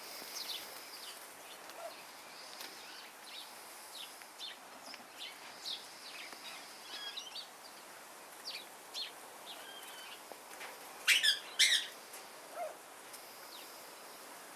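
Birds chirping with many short, high calls, and two louder calls close together about eleven seconds in.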